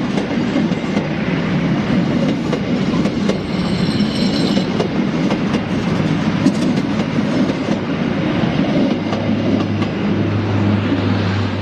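Train running past, its wheels clattering over the rail joints, with a brief high-pitched squeal about four seconds in. A low steady hum sets in near the end.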